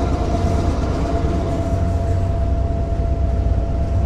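Inside the cab of an EMD GP38-2 diesel locomotive under way: a steady low drone from its 16-cylinder two-stroke diesel engine, with a steady high whine over it.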